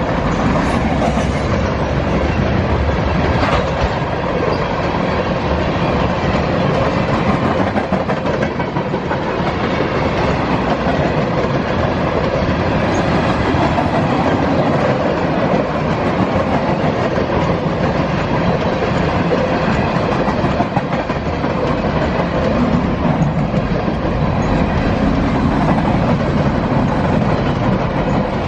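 Freight train cars rolling past, their wheels clacking steadily over the rail joints.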